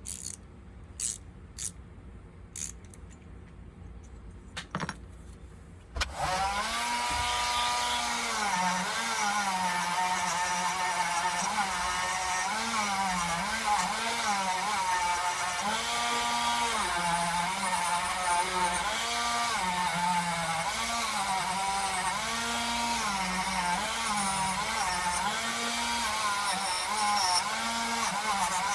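Light handling clicks, then a small electric power tool starts suddenly about six seconds in and runs on, its motor pitch dipping and recovering again and again as it bites into the work.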